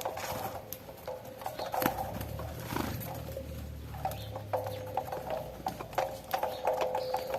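Irregular tapping and clicking of a flock of saffron finches pecking at cracked corn, with a low hum for a couple of seconds in the middle.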